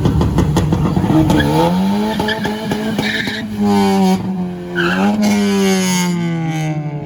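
Nissan Titan pickup's V8 held at high revs in a burnout, with tyre squeal. The engine pitch climbs over the first two seconds, holds, dips briefly past the halfway point and comes back, then sags slowly toward the end.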